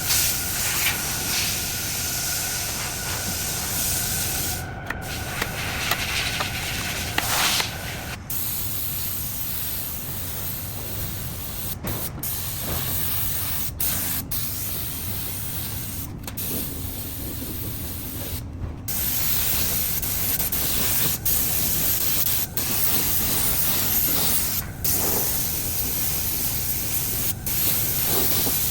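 Compressed-air spray gun hissing steadily, broken by several brief gaps where the trigger is let go between passes.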